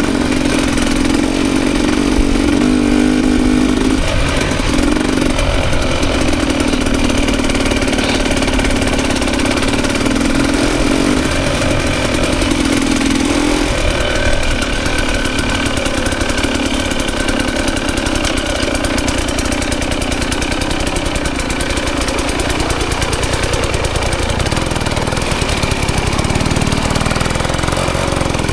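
Dirt bike engine running under way on a trail, its note rising and falling with the throttle every few seconds, under a constant hiss.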